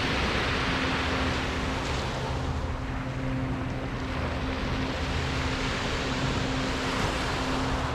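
Sea waves breaking and washing onto the shore, the surf swelling and falling back in surges every few seconds.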